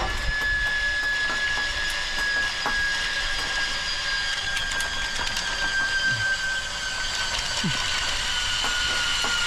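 Zipline trolley pulleys running along the steel cable: a steady whine that falls slowly in pitch as the rider loses speed, over wind noise.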